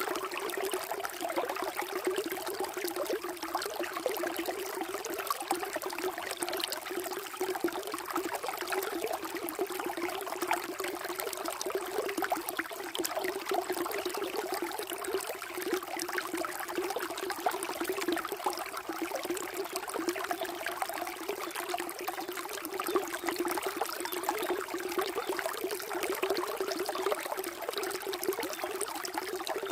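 Water flowing and trickling steadily, with a busy, splashing babble.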